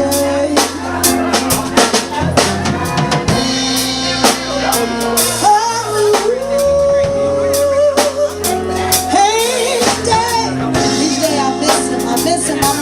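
Live band playing with a drum kit keeping a steady beat, with a bass line under held, sliding sung or instrumental notes.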